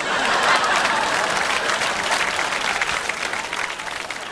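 Studio audience applauding, a dense steady clapping that eases slightly toward the end.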